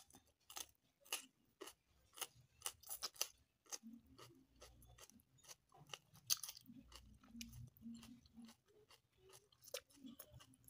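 Close-miked chewing of crisp blanched pak choy stalks: a rapid run of sharp crunches and wet mouth smacks.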